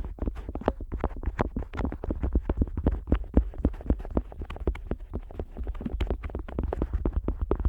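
An otoscope rubbing and tapping against the ear of a Neumann KU100 dummy-head microphone, heard very close up as a fast, irregular run of scratchy clicks, several a second, over a deep rumble.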